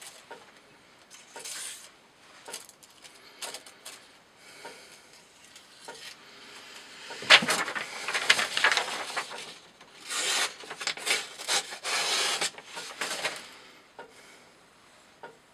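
Knife blade slicing through thick rope: rasping cutting strokes, a few scattered ones at first, then a dense run of loud strokes in the middle that stops a couple of seconds before the end.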